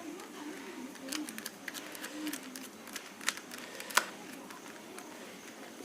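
Scattered light clicks and taps of a screwdriver and plastic parts as screws are driven back into a small Bluetooth speaker's casing, with two sharper clicks a little after three seconds and about four seconds in.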